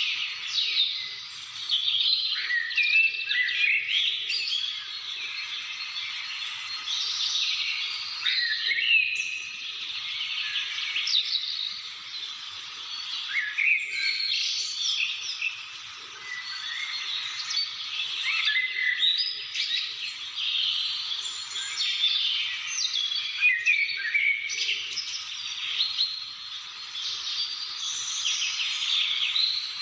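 Many birds singing and calling at once: a dense, unbroken chorus of overlapping chirps and whistles, with short rising and falling notes.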